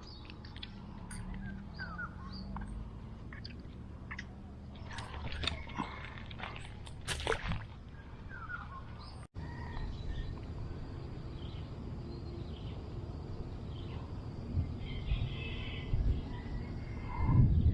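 Outdoor rural ambience: a steady low background noise with scattered short bird chirps. The sound drops out for a moment about nine seconds in.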